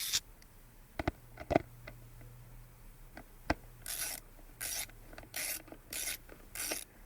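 A few light clicks and knocks of parts being handled, then from about halfway a steady run of short rubbing strokes, roughly three every two seconds.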